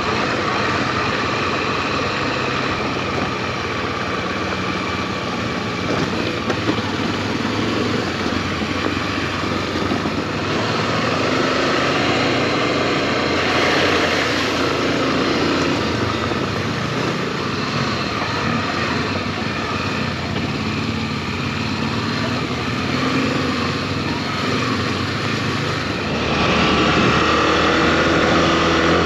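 Single-cylinder engine of a Honda XRE300 dual-sport motorcycle running steadily under way, over a constant rush of wind and road noise. It gets a little louder a few seconds before the end.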